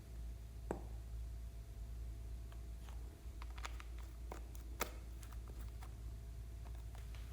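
Slime being worked and mixed by hand, giving scattered small sticky clicks and pops, the sharpest just under a second in and about five seconds in, over a steady low hum.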